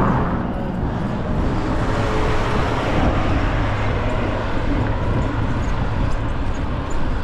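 Steady rush of wind and road noise while riding a bicycle, with no clear beats or tones.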